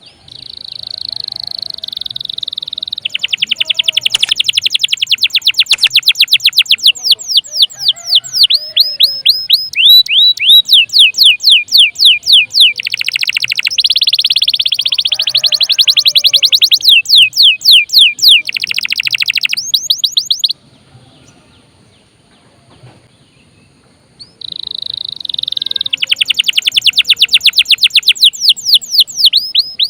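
Domestic canary singing a loud, long song of fast trills, each made of many quickly repeated downward-sweeping notes. The song breaks off for about four seconds after some twenty seconds, then starts again.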